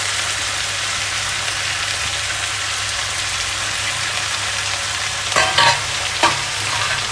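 Sliced pointed gourd, potato and onion sizzling steadily in hot oil in a kadhai, the gourd just tipped in on top. A few brief clatters come near the end.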